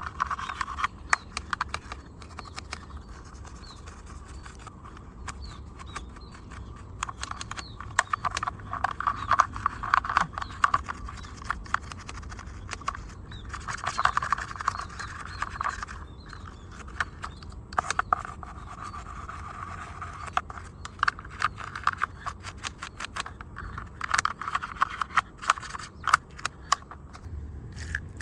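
Irregular small clicks, taps and scraping from hands handling and cleaning a diecast model car, with stretches of rubbing every few seconds.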